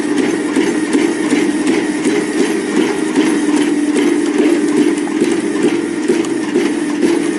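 Log splitter running: a steady machine hum with a fast, irregular clatter of knocks over it.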